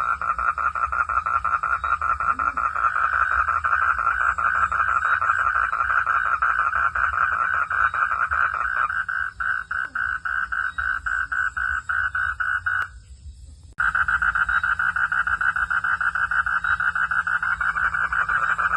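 Night chorus of frogs calling in a dense run of rapid pulses. About two-thirds of the way through it thins, cuts out for about a second, and then starts again.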